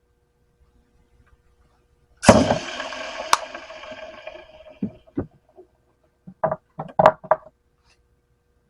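Metal casting gear struck against metal: a loud clang about two seconds in that rings on and fades over about two seconds, then a run of short, sharp clacks and knocks.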